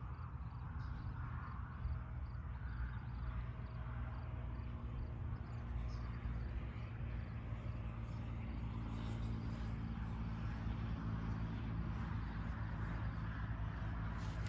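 Steady low drone of a distant engine, growing slightly louder.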